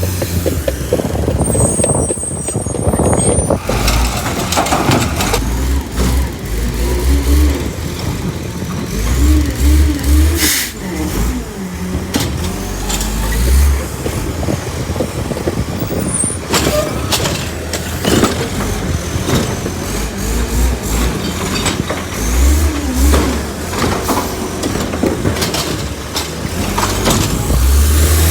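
Garbage truck with a Bridgeport Ranger body working its route: the diesel engine rumbles and surges up and down repeatedly, with a wavering whine and short sharp air-brake hisses.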